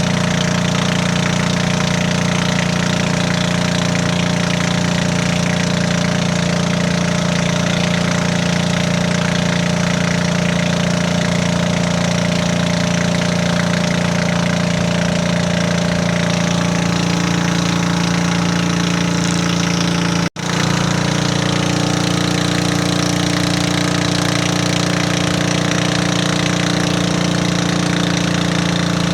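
Hitachi backhoe's diesel engine running steadily, with a pulsing chug. The sound cuts out for an instant about twenty seconds in, then carries on.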